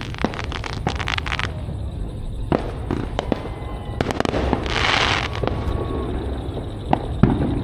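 Fireworks going off: a rapid string of firecracker pops, then scattered single bangs, a short hiss about five seconds in, and two more bangs near the end.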